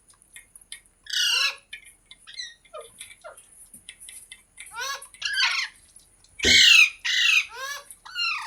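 Pet green parrot squawking repeatedly in short calls that rise and fall in pitch, with softer chirps between them; the loudest squawk comes about six and a half seconds in.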